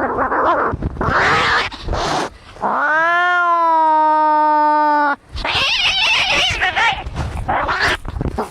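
Cats fighting: harsh, noisy snarling cries, broken in the middle by one long yowl that rises in pitch and then holds steady for about two and a half seconds.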